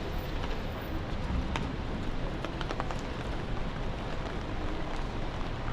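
Steady rain and city street noise with a low traffic rumble, with a few scattered sharp ticks in the middle seconds.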